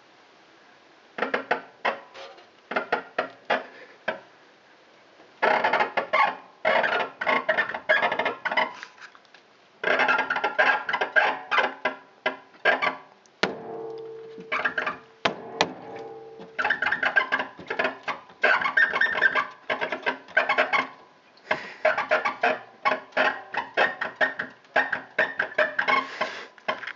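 Chevrolet Lacetti fuel tank creaking: runs of rapid, squeaky creaks in clusters, separated by short pauses.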